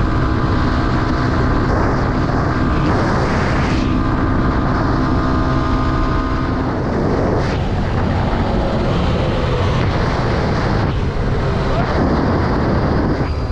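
Dirt bike engine running under way. Its note holds steady, changes pitch about four seconds in, then gives way to a rougher, noisier sound with wind rushing over the microphone.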